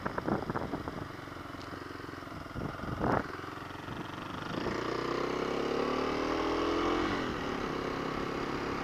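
2021 Kawasaki KLX250's single-cylinder four-stroke engine running under way with wind noise. About halfway through the engine revs up in a steady rising pitch for a couple of seconds, then drops back and runs on steadily.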